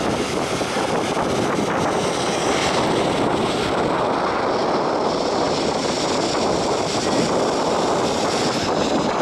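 Jet airliner engines running steadily on the ground, a constant even rush of engine noise.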